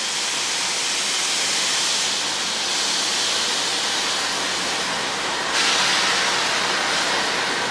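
Pacific National NR-class diesel-electric locomotive hauling a passenger train slowly past a station platform: a steady loud hissing rush with little low rumble, which steps up again about five and a half seconds in.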